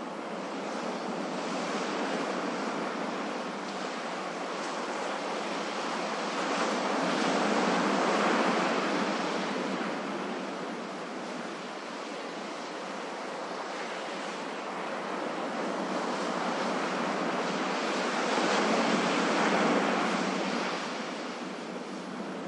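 Ocean waves washing onto a shore: a continuous rushing surf that rises and falls, with two louder crests about eleven seconds apart.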